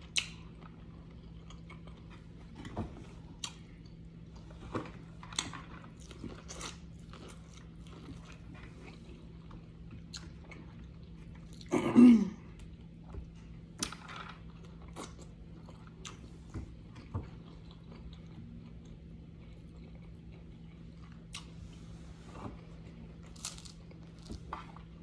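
Close-up eating sounds: a person biting and chewing corn on the cob and boiled egg, with scattered wet mouth clicks and smacks. About halfway through comes one short, louder burst, with a faint steady hum underneath.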